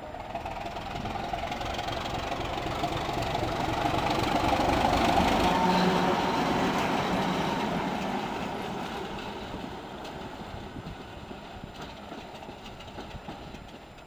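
Class 751 diesel locomotive running past with its engine under way. The sound builds to its loudest about five seconds in, then fades away.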